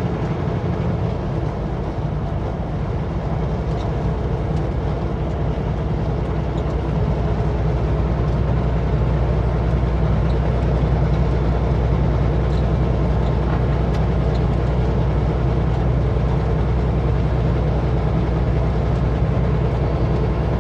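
Kenworth W900L semi truck cruising at highway speed: a steady low diesel drone over road noise, growing a little louder about seven seconds in.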